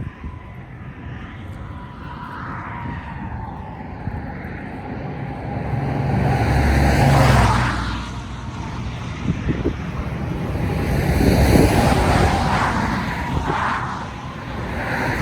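Cars driving past one after another, two swells of engine and tyre noise rising and fading, the louder passes about seven and eleven seconds in.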